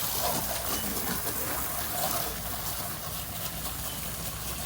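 Pressure washer rinsing at low pressure: a steady spray of water from the wand over the even hum of the washer's pump unit.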